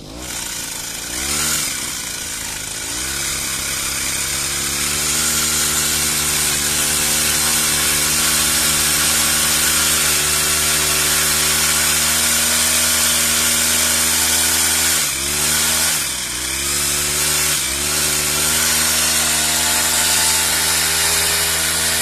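Petrol pole pruner's small two-stroke engine and saw chain: revved up twice in the first three seconds, then held at a high, steady speed, with the throttle let off and opened again about three times near the end.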